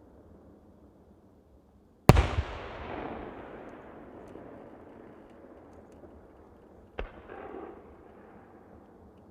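Aerial firework shells bursting. One loud bang about two seconds in is followed by a long rolling echo that fades over several seconds, then a smaller bang comes about seven seconds in.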